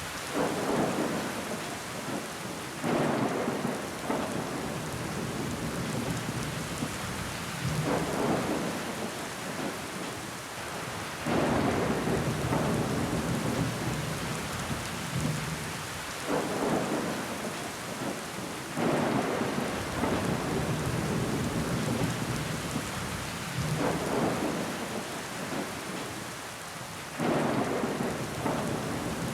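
Steady heavy rain pattering against window glass, swelling louder every few seconds as gusts of heavier rain and running water hit the pane.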